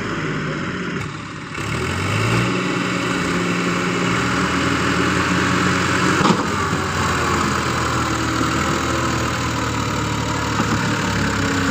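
Power tiller engine running steadily, its note rising about two seconds in, with a short sharp click around six seconds in.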